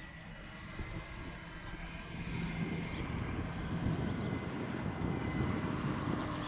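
Electric RC model aeroplane's motor and propeller whining faintly in flight, a steady tone joined by a lower steady one near the end, over a low uneven rumble that swells from about two seconds in.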